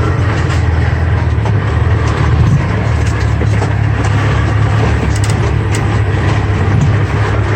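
Empty log truck's diesel engine running as the truck drives, a steady low drone with road noise and a few light knocks and rattles.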